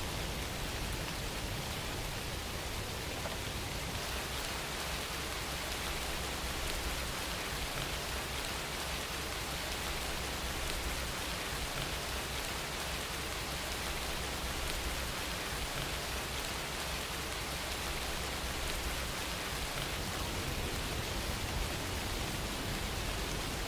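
Steady rainfall as an ambient rain-sound track: an even hiss of rain without a break or change.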